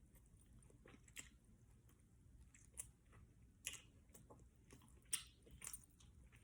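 Faint chewing and biting on crispy fried chicken close to the microphone, with a few irregular sharp crunches and mouth clicks.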